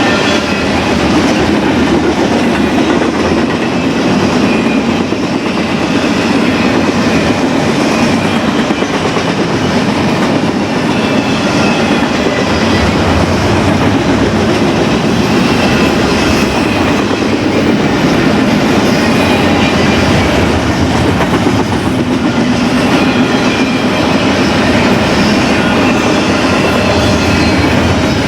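BNSF double-stack intermodal freight train rolling past, its wheels clattering steadily over the rail with a faint high wheel squeal running underneath.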